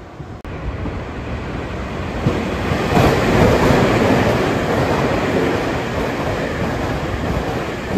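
A Taiwan Railway electric train moving along the station platform: a dense rush of wheel and running noise that swells to its loudest about three seconds in and then holds, easing off slightly.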